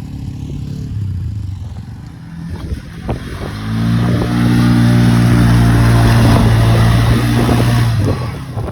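ATV's 450 engine revving hard and holding high revs for about four seconds as its wheels spin in deep mud, then easing off near the end: the quad is stuck, bottomed out in the rut.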